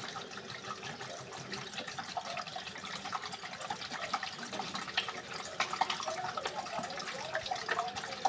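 Water splashing and trickling as it is poured from a bottle into a washing machine, topping up the water level by hand.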